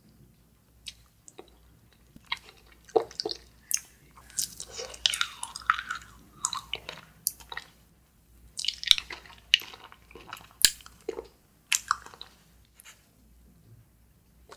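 Close-up chewing and biting of frozen fruit-shaped jelly candy: irregular bites, clicks and wet mouth sounds with brief pauses between them.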